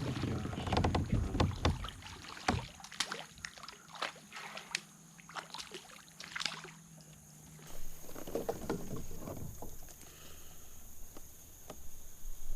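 Scattered knocks and clicks of gear and body movement against the hull of a Native Slayer Max 12.5 fishing kayak on the water. They are busiest in the first half, with a low rumble at the start.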